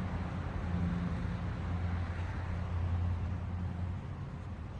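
A steady low mechanical hum, like an engine or motor running, over a faint background noise.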